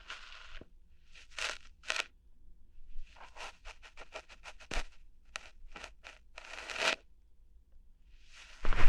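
Close-up ear-hair-plucking ASMR: crackly rubbing strokes and quick sharp snaps right at the microphone's ear, including a fast run of small pops about three seconds in.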